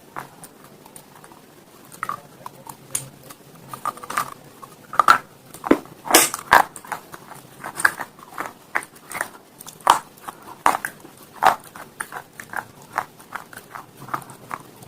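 Close-up crunching and chewing of something hard and brittle, many sharp irregular crunches in quick succession, the loudest bites between about five and seven seconds in.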